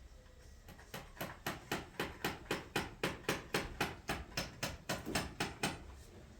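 Hammer driving a nail, in a quick even run of about twenty blows at roughly four a second, stopping shortly before the end.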